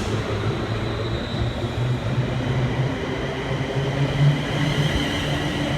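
Class 350 Desiro electric multiple unit pulling out of the station: a steady run of traction-motor hum and wheel noise, the hum rising slightly in pitch as the train gathers speed.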